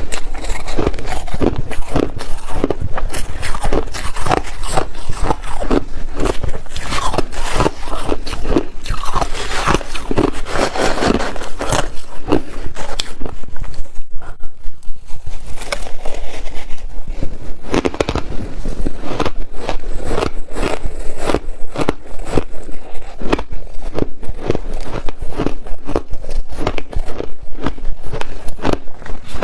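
Ice being bitten and chewed close to the microphone: a dense run of crisp crunches, a short lull about halfway through, then quick regular crunches again.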